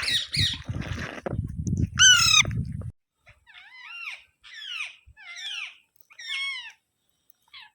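Alexandrine parrot calling: quick repeated squawks at the start, a loud harsh squawk about two seconds in, then a string of five shorter, quieter chattering calls. A low rumbling noise runs under the first three seconds.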